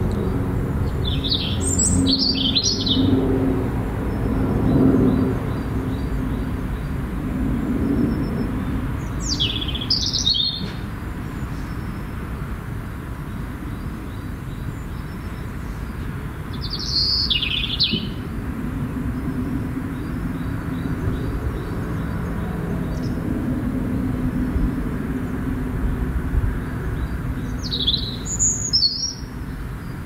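Birds chirping in four short bursts of high notes, roughly eight seconds apart, over a steady low rumble.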